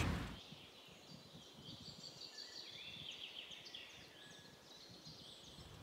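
Faint birds singing: many short high chirps and trills over a low hiss.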